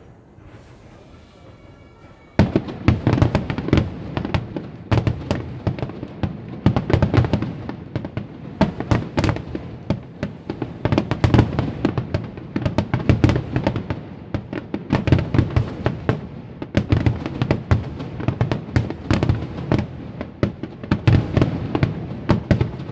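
Fireworks barrage: aerial shells bursting in rapid succession, many sharp bangs overlapping. It starts suddenly about two seconds in after a quieter moment and keeps going densely.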